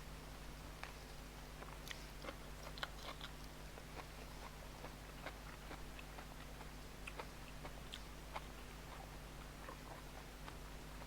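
A person chewing food close to the microphone: faint, irregular small wet clicks of the mouth, over a low steady hum.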